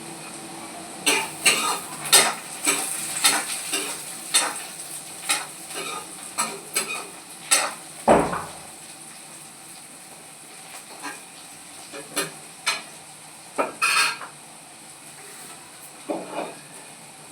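A cooking spoon stirring beans and potato sabzi in a pan, scraping and knocking against the pan many times in quick succession, then only now and then, over a steady frying sizzle.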